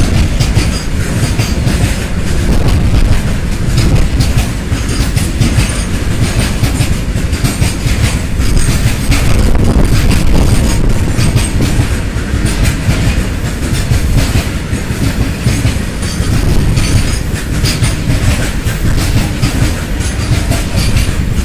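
Freight train of BCNA covered wagons rolling past at speed, a steady rumble with the wheels clattering rapidly over the rail joints.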